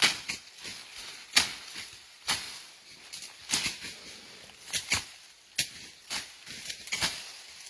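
Dry brush cracking and rustling in a string of sharp, irregular cracks, about one or two a second, the loudest about a second and a half in.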